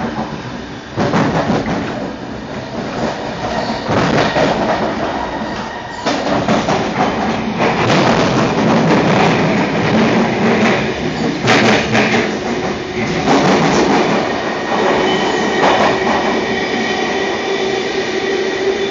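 Sydney electric suburban train running on the line: loud, continuous wheel-on-rail noise that swells and fades, with a steady tone joining in past the middle.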